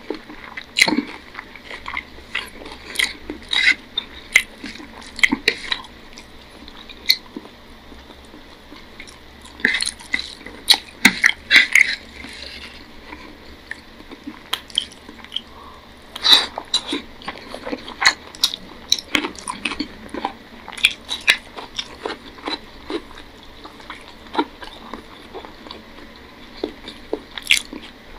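Close-up eating sounds of a person eating rice and egg curry by hand: chewing and wet mouth smacks, irregular and in clusters, with the soft squish and tap of fingers mixing rice on a plate.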